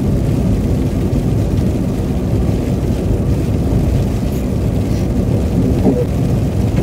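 Steady low rumble of tyres and engine heard inside a moving car's cabin, driving over a wet, slushy road.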